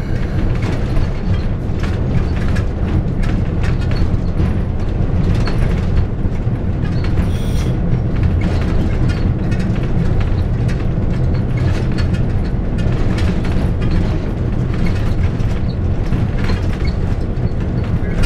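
A train running along the track, heard from the front of the locomotive: a steady low engine drone with continual clanking and rattling from the wheels and running gear on the rails.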